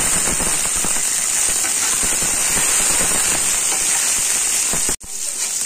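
Green peas frying in hot mustard oil with onions and peanuts in a pan, a loud dense sizzle full of rapid spattering pops as a spatula stirs them. The sound cuts out abruptly about five seconds in, then the frying and stirring resume.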